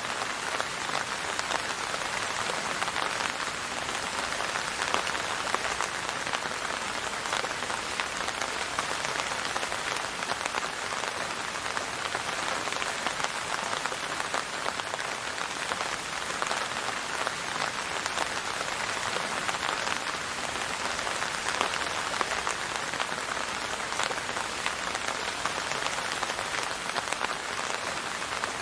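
Steady rain falling on a surface: an even, unbroken hiss with individual drops ticking through it.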